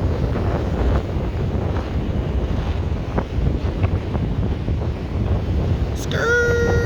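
Strong wind buffeting the microphone over heavy surf, a dense, steady rumble. Near the end a steady tone with several pitches starts with a click and holds.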